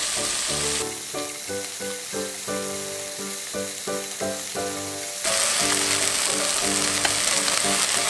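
Chopped green onions sizzling in hot cooking oil in a pan as they are stirred with chopsticks, the start of making scallion oil. The sizzle gets louder about five seconds in, over background music.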